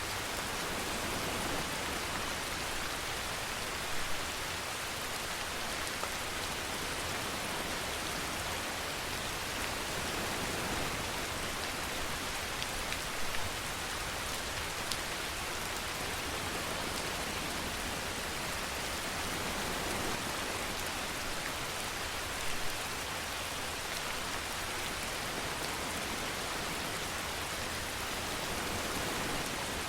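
Steady rainfall, an even hiss of rain falling on a surface, with a few louder individual drop hits now and then.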